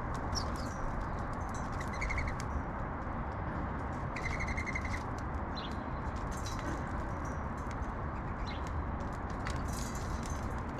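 Sparrows chirping, with short high chirps scattered throughout and two rapid trills, one about two seconds in and a longer one about four seconds in, over a steady low rumble of city background noise.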